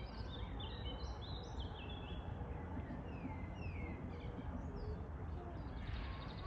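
Small birds chirping, with many short falling whistles, over a steady low rush of river water.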